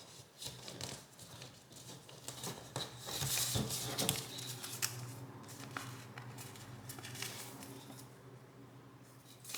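Origami paper being folded and creased by hand: irregular rustling and crinkling with small clicks, busiest about three to four seconds in, over a faint steady low hum.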